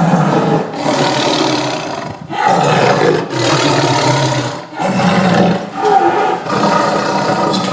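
Lion roar sound effect: a run of loud, rough roars, one after another with short breaks between them.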